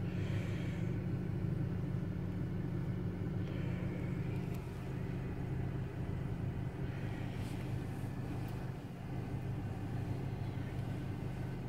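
2011 Hyundai Sonata's four-cylinder engine idling steadily soon after a cold start, heard as a low, even hum inside the cabin.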